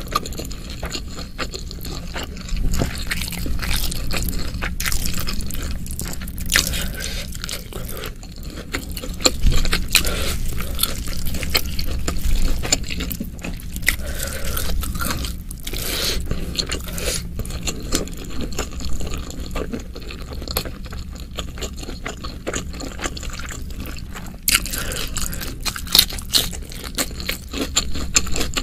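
Close-miked eating: wet chewing and mouth clicks as spicy stir-fried beef and rice are eaten by hand, with occasional crunches and fingers scooping through the food.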